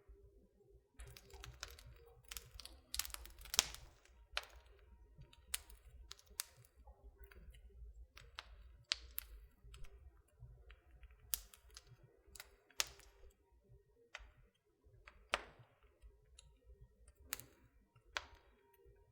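Wood fire crackling in a fireplace: irregular sharp snaps and pops, a few at a time with short gaps, the loudest about three and a half seconds in.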